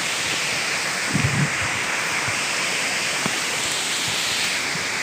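Steady rushing of a large waterfall close by, with a brief low bump about a second in.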